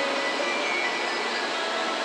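Steady whirring hiss of a stationary N700 series Shinkansen train waiting at the platform, its onboard fans running.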